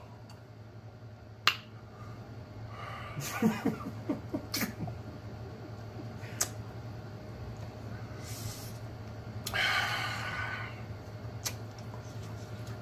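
Close-miked mouth sounds of a man chewing a mouthful of canned Vienna sausages: scattered wet clicks and smacks, a short low moan with smacking about three to five seconds in, and a long breath out through the nose near the end.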